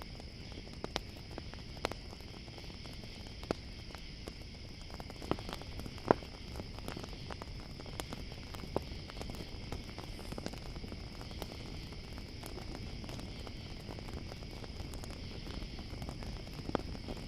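Campfire crackling, with sharp pops scattered irregularly through it, the loudest about six seconds in, over a steady high-pitched chorus of crickets.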